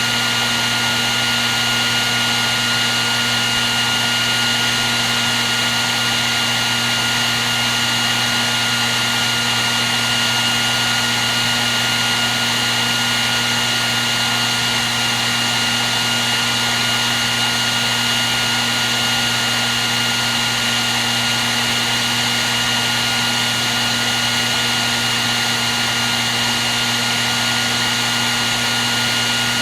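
A hair dryer running continuously at a steady speed: a constant rushing of air with a fixed motor whine, used as white noise. It does not change in level or pitch.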